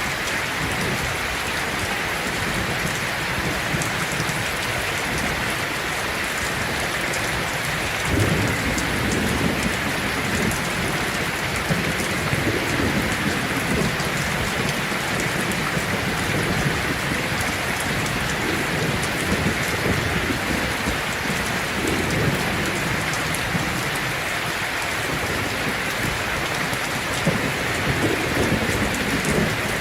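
Heavy rain falling steadily on a tin roof, with low rolling thunder that comes in about eight seconds in and rumbles on and off through the rest.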